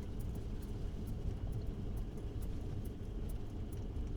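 A truck driving up a mountain road with tracks in the snow: a steady low rumble of engine and tyres, with scattered light clicks throughout.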